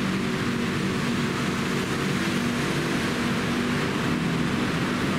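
Steady hum of a BTS Skytrain electric train standing at the platform, with a few low tones that hold steady over a wash of noise.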